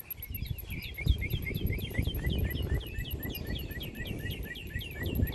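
A songbird singing a fast run of short, down-slurred chirps repeated about four or five times a second, over a low, uneven rumble.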